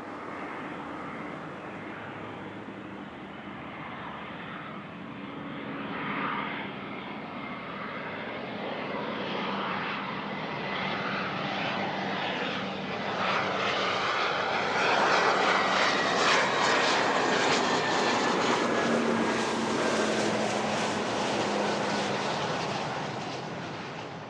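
Business jet passing on the runway: its engine noise builds to a peak in the second half, with a thin whine that falls in pitch as it goes by, then fades.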